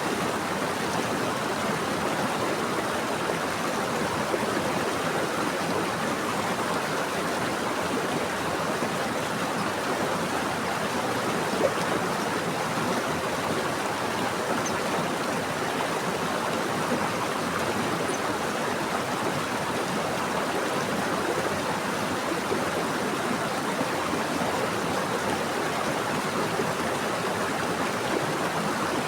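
Flowing stream water running steadily, an even rushing with now and then a slightly louder moment.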